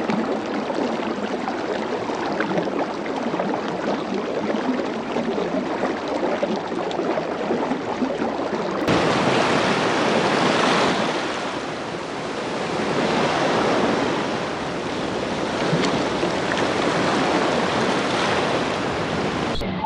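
Steady rushing noise with no distinct calls, swelling and easing every few seconds like surf. About nine seconds in it changes abruptly to a brighter, louder rush, as at a cut between recordings.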